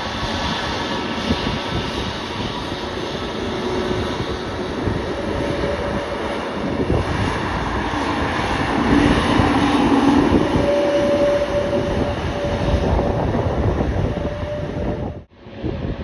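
Jet airliner engines running loud and steady as the aircraft passes, swelling around the middle with a humming tone, then cut off suddenly near the end.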